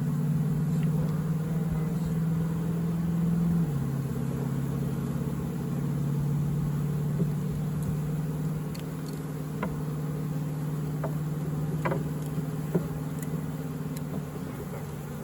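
Honeybees buzzing in a steady, fairly loud hum around an open hive; the bees are agitated by the frame transfer. The hum drops a little in pitch a few seconds in, and a few light clicks of wooden frames being handled come near the middle.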